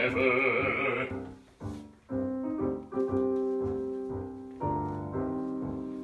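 A man's singing voice holds the final word "ever" with vibrato for about a second, then a piano plays a few slow, sustained chords, each struck and left to ring.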